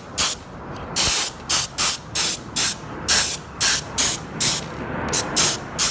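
Short hissing spray bursts, about a dozen at roughly two a second, blasted at a string trimmer part to clean it.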